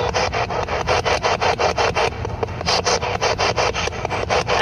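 Spirit box sweeping through radio frequencies: a rapid choppy train of static bursts, about eight a second, that thins briefly about two seconds in.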